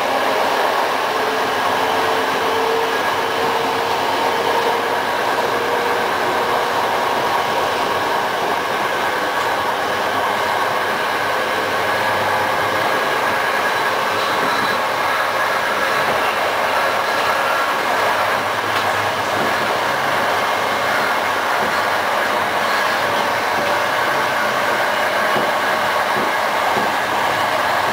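Passenger train hauled by an EU07 electric locomotive running along the line, a steady, unbroken running noise of wheels on rail. A faint whine rises slightly in pitch over the first few seconds.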